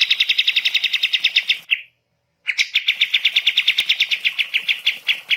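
A small songbird giving a fast, even trill of repeated chattering notes, about fourteen a second. It breaks off briefly less than two seconds in, then starts again.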